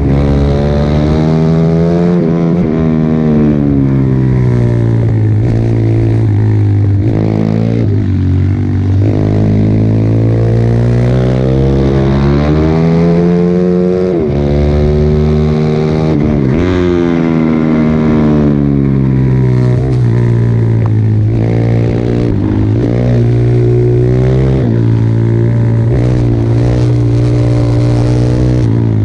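Pit bike engine at racing speed, revving up and dropping back again and again, several times over, as the bike accelerates out of corners and brakes into them.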